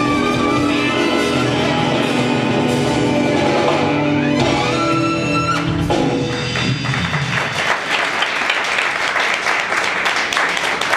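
Live band finishing a song, its last sustained chord ringing out about six seconds in, followed by audience applause.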